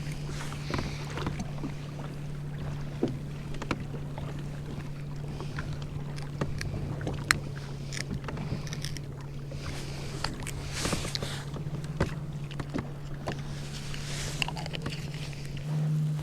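Kayak on the water: a steady low hum runs throughout, a little louder near the end, under water lapping and scattered small knocks and clicks against the hull.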